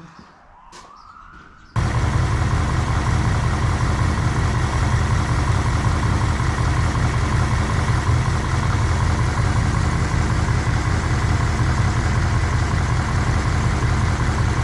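Dodge 318 V8 engine running steadily, heard from under the truck beside its spinning crankshaft pulley. It cuts in suddenly about two seconds in after a quiet start. The engine is running so the newly replaced freeze plug can be checked for leaks.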